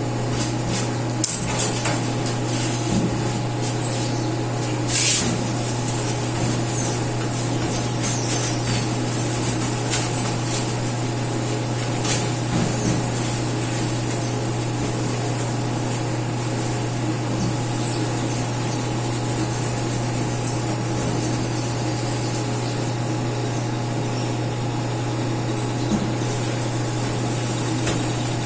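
A steady low mechanical hum, with scattered light clicks and rubbing and one short hiss about five seconds in.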